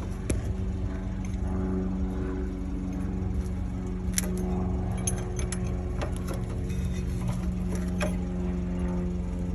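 Scattered metallic clicks and clinks of a wrench on the bolts of a semi truck's battery hold-down bracket, over a steady low hum.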